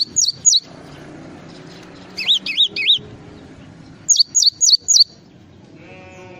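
Gelatik songbird singing. It gives quick runs of four sharp, high, falling chirps at the start and again about four seconds in, and three lower rising-and-falling notes in between, over a steady low hum.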